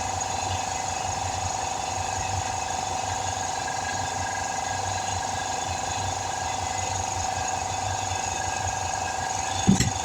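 Portable air compressor running steadily with a constant whine, which the owner takes for bearings that are about gone. A heavy thump comes near the end.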